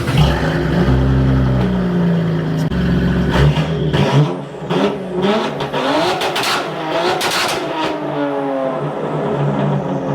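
Car engine running with a low, steady note, then revved up and down several times about four seconds in.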